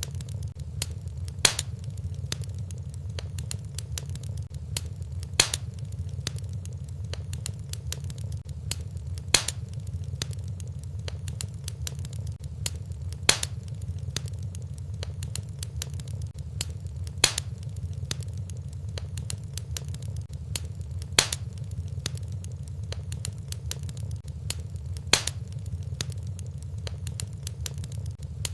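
Wood fire in a fireplace crackling over a steady low rumble. Small crackles run throughout, and a louder sharp pop comes about every four seconds.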